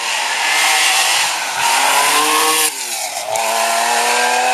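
Historic Porsche 911 rally car's air-cooled flat-six passing at full throttle, its revs climbing. The revs dip sharply about two and a half seconds in, then climb again as it pulls away.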